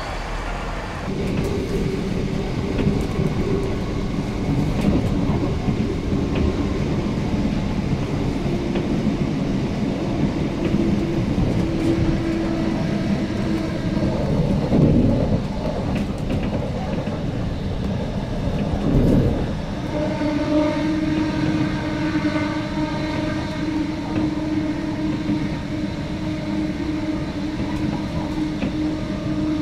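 A train running with a continuous low drone of engine or traction-motor tones. There are two brief louder swells past the middle, and the tone settles onto a new steady pitch about two-thirds of the way through.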